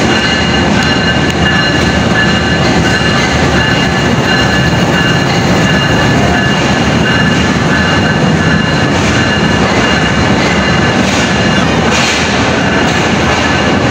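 Diesel-hauled passenger train rolling past along a station platform: a loud, steady rumble of locomotive and carriages with a few thin, steady high tones over it.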